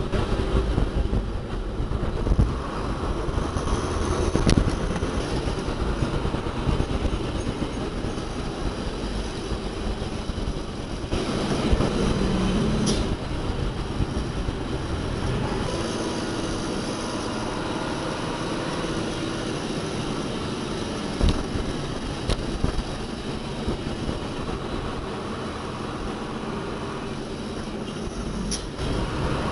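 Heavy diesel machinery running steadily with metallic clanking and occasional sharp clicks; the sound shifts about eleven seconds in.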